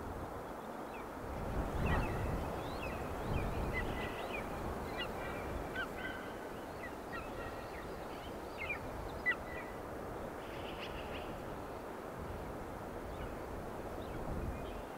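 Birds calling in a rapid scatter of short, high chirps and whistled notes, thickest through the middle, over a low, uneven rumble.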